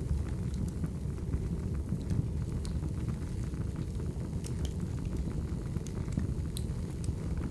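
Burning firewood: a steady low rumble of flames with scattered sharp crackles and pops at irregular moments.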